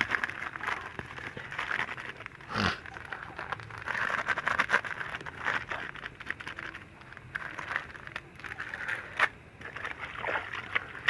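Wet clothes being rubbed and squeezed by hand in a bowl of water: irregular scrubbing and splashing, with a louder splash about two and a half seconds in.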